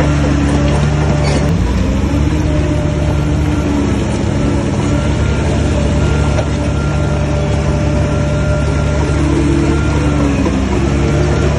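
Shantui bulldozer's diesel engine running steadily, its pitch shifting slightly about a second in and dipping near the end as the load changes.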